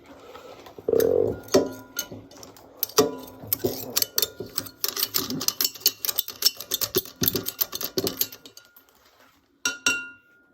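A utensil scraping and knocking inside a blender jar, digging out crushed chips: a run of irregular clicks and taps that thins out near the end, with a couple of last knocks.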